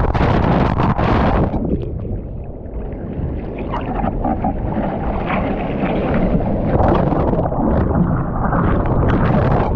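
Wind buffeting the microphone over rushing, splashing sea water in choppy surf, louder in the first second or so, easing, then building again near the end.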